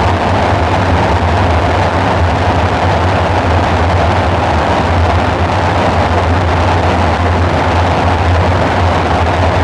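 Dark ambient synthesizer drone: a steady, unchanging low hum with a band of noisy hiss above it.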